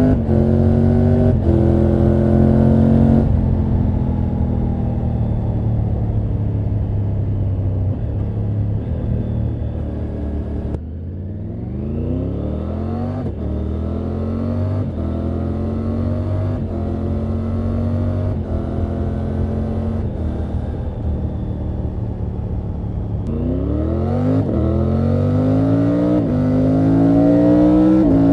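Triumph Tiger 900 GT Pro's three-cylinder engine and exhaust on the move. The revs hold at first, then the throttle closes about three seconds in and the engine note falls slowly. From about eleven seconds it pulls away again with rising pitch, runs fairly steady, and near the end accelerates hard, getting louder and higher.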